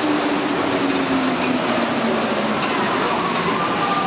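Rubber-tyred Paris Métro Line 4 train running: a steady rolling noise from the rubber tyres on the concrete tracks, with an electric motor whine slowly falling in pitch. A second, higher whine comes in near the end.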